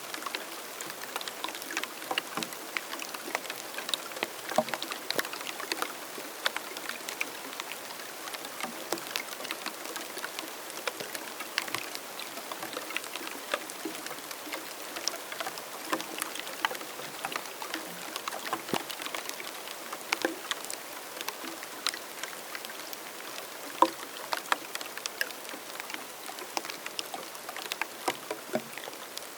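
Rain falling in the Namib desert: many scattered drops tick and patter irregularly over a soft, steady hiss.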